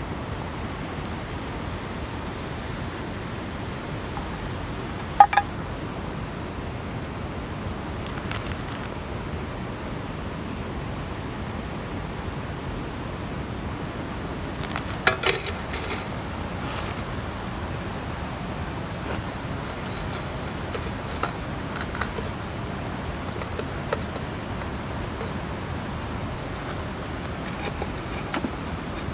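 Steady hiss of a campfire with a few sharp clicks and metallic clinks, the loudest about five seconds in and again around fifteen seconds.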